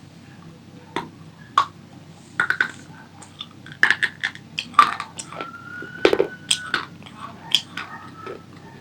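Crunchy snack being bitten and chewed close to the microphone: irregular sharp crunches and crackles, thickest in the middle, with a brief faint whistle-like tone among them.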